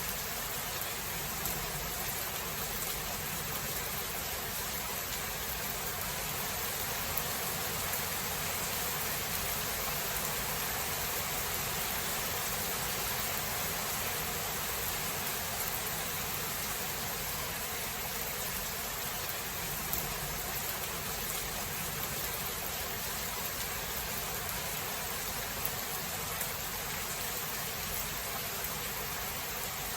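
Steady rain falling, an even hiss with no thunderclap.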